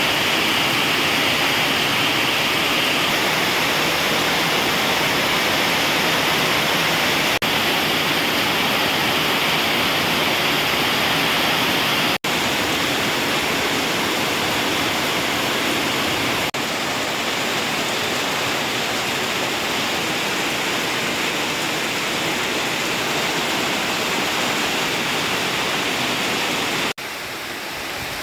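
Heavy rain falling in a steady, even downpour. The sound cuts out for an instant a few times, and is a little quieter after each of the last two breaks.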